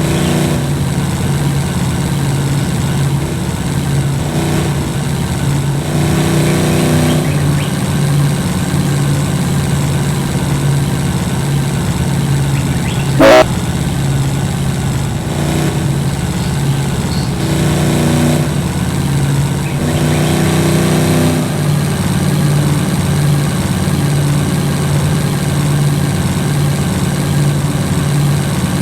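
A vehicle engine running steadily while driving off-road, with a brief, loud sharp knock about halfway through.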